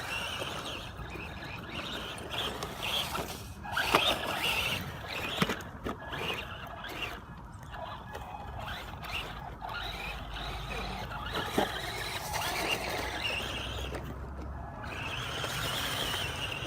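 Small brushed electric motor and gear drive of a 1:12 FEIYUE FY12 RC truck whining as the throttle is worked, its pitch rising and falling, with a few sharp knocks a few seconds in.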